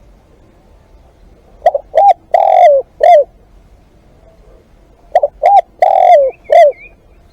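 Spotted dove cooing loudly: two phrases of four coos each, about three and a half seconds apart, the third coo of each phrase drawn out longer than the rest.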